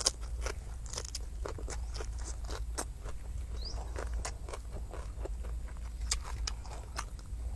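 Close-miked chewing and crunching of food, an irregular string of short crisp clicks and mouth sounds over a low steady rumble.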